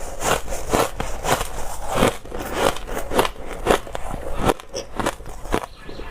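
Dry, hard ice being bitten and chewed, a quick run of crisp crunches about three a second that thins out and goes quieter about four and a half seconds in.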